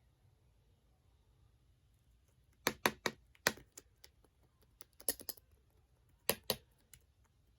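Clay-mixed slime being handled, giving sharp clicks in small groups of two or three.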